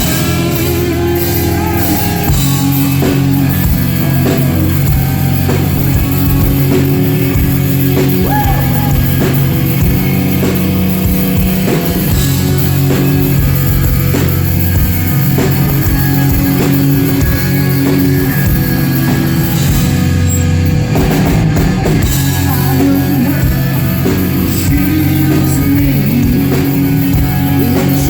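Live hard rock band playing: distorted electric guitars, bass and a drum kit at full volume.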